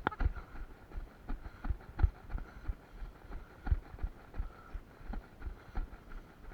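Running footsteps thudding in a steady rhythm, about three a second, with a faint steady high tone behind them.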